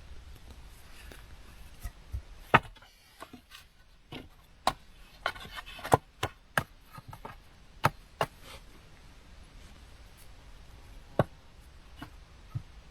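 Sharp, irregular knocks of wood on wood, about a dozen strikes with uneven gaps, as pieces of a simple stick door are fitted and knocked together by hand.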